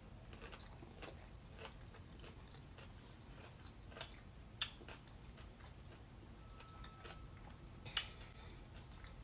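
Faint mouth sounds of a person chewing and biting into food, with scattered small wet clicks and two sharper clicks, one about halfway through and one near the end.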